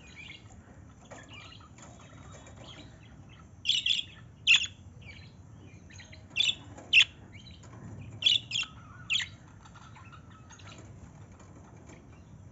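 Birds chirping: a scattering of short, sharp chirps, the loudest in loose clusters about four, six and a half, and eight and a half seconds in, over a faint steady low background noise.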